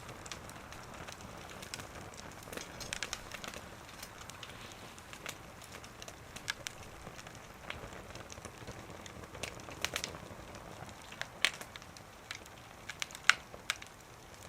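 Wood fire burning in a small wood stove, crackling with irregular sharp pops over a steady low hiss; the loudest pop comes near the end.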